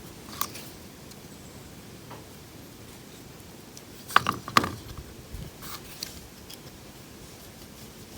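Scattered small clicks and light knocks of hand tools and wiring being handled, with a quick cluster of sharper clicks about four seconds in.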